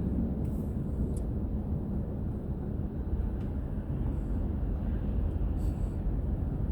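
Steady low rumble of a car driving on the road, tyre and engine noise.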